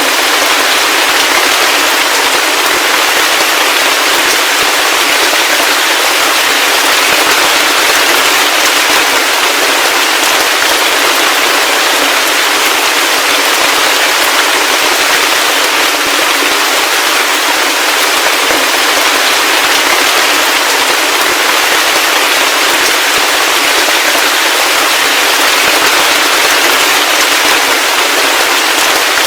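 Steady heavy rain: a dense, even hiss of countless drops, with no low rumble and no thunder.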